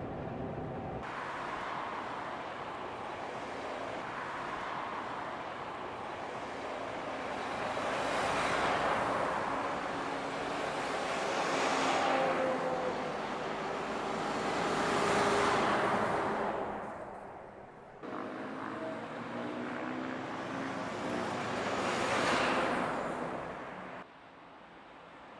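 Road vehicles passing by at speed, one after another, each rising and falling away, with the road noise changing abruptly a few times.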